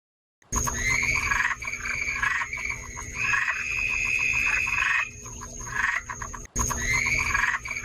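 Repeated animal calls, rising and falling, with quick pulsed runs between them, over a steady high whine and a low hum.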